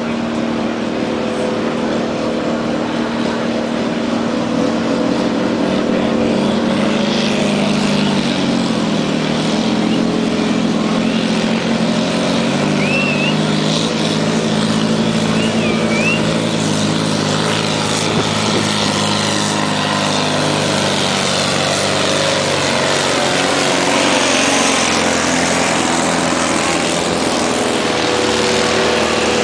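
Heavy FAUN truck's diesel engine running hard under full load as it drags a truck-pulling sled. The engine speed sags partway through as the load builds, then picks up again near the end.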